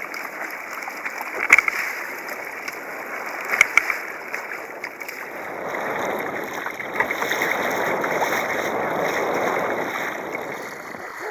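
Water splashing and sloshing around a fishing kayak, with a couple of sharp splashes or knocks early on and a swell of rushing water in the second half.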